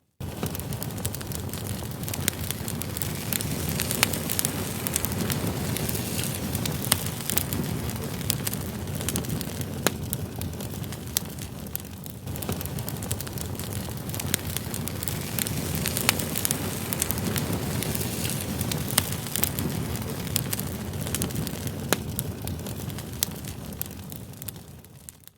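Firewood burning in a campsite campfire: a steady low rush of flame with frequent sharp crackles and pops from the burning logs.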